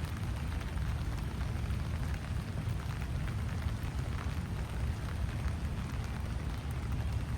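Rain falling steadily, with many small drop patters over an even hiss and a steady low rumble underneath.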